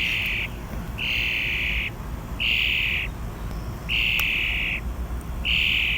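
An injured wild bird giving harsh, hissing calls, each under a second long, repeated about every one and a half seconds, five times in all.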